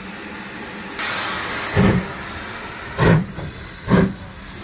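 Steam locomotive getting under way: a hiss of steam, then slow exhaust chuffs a little over a second apart, coming quicker as it pulls away.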